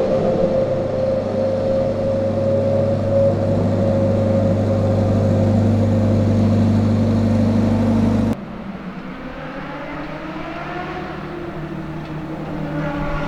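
Ferrari FXX K Evo's V12 engine running at a steady, even pitch. About eight seconds in, the sound cuts off abruptly to a quieter engine sound whose pitch rises as it picks up revs near the end.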